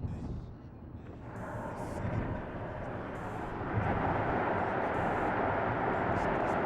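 Dodge Charger's 3.5-litre V6 exhaust, resonator removed and stock muffler kept, heard from inside the car at about 50 mph while driving into a tunnel. The engine and road noise swell about a second in and grow louder again around four seconds in as the tunnel walls reflect it.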